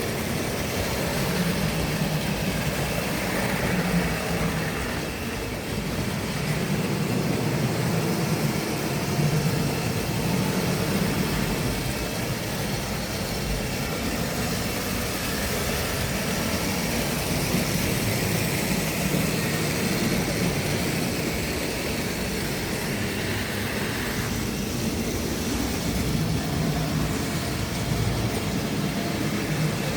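Tri-ang model train running steadily around the track, a continuous motor and wheel sound that wavers a little in level.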